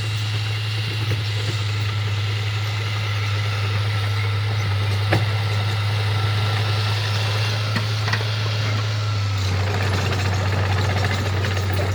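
Diesel engine of a heavy construction machine running steadily, a deep even drone, with a single sharp click about five seconds in.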